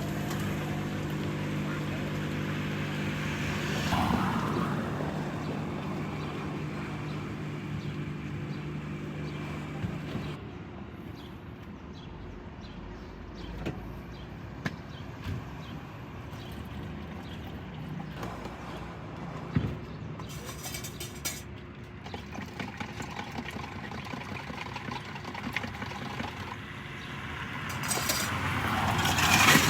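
Roadside traffic sound: a vehicle engine hums steadily, then stops about ten seconds in. Scattered light clicks follow, and a vehicle passes near the end, swelling and fading.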